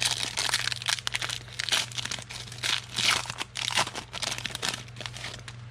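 Plastic wrapper of football card packs crinkling in irregular bursts as a pack is handled and torn open. The crinkling stops near the end.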